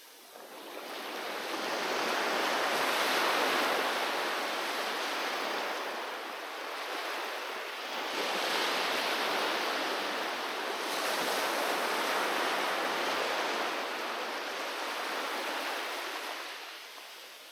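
Ocean waves washing onto a beach in several overlapping surges, swelling up about a second in and easing off near the end.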